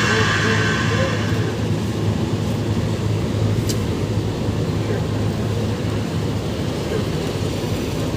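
Large outdoor carnival sound system playing heavy bass, heard from a distance as a steady low rumble, with crowd and street noise on top.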